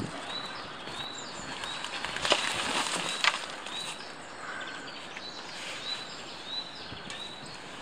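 Small birds calling in woodland, short high notes that arch and fall, repeating every second or so over a steady outdoor hiss. A couple of sharp knocks come from a wheelbarrow being handled, the loudest about three seconds in.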